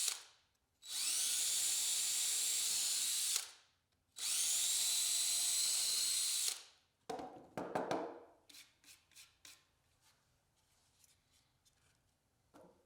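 Power drill boring drain holes through the cedar base of a birdhouse: two runs of about two and a half seconds each, the motor whine rising as it spins up, with a short pause between them. About seven seconds in, a cluster of wooden knocks and clicks follows, thinning out toward the end.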